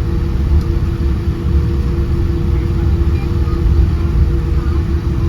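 Steady low rumble of a Boeing 787-10's engines heard from inside the cabin, with a steady two-note hum over it. The level holds even throughout, with no surge of power.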